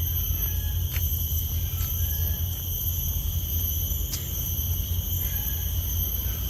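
Forest trail ambience: a steady low rumble on the microphone under a continuous high-pitched insect drone made of several steady tones, with a few faint short chirps and a couple of faint clicks.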